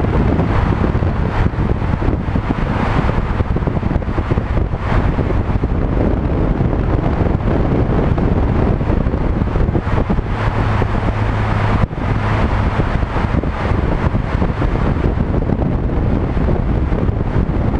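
Heavy wind noise buffeting the microphone on a moving scooter, over a steady low road-and-engine rumble. A low hum grows stronger for a couple of seconds near the middle, and the sound drops out for an instant about twelve seconds in.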